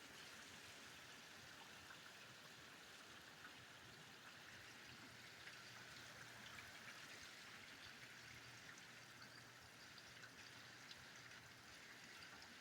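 Faint, steady hiss of heavy rain, with scattered faint ticks of drops and a faint low hum beneath.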